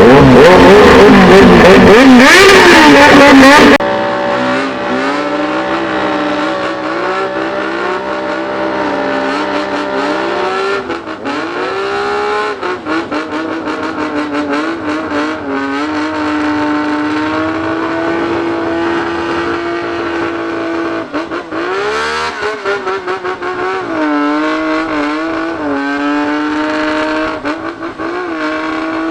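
Motorcycle engines revving, very loud for the first few seconds and then cutting abruptly to a quieter stretch where the engine note holds steady and rises and falls again and again with each blip of the throttle.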